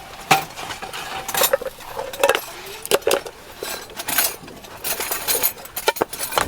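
Metal utensils and cookware clinking and knocking together in quick, irregular strikes.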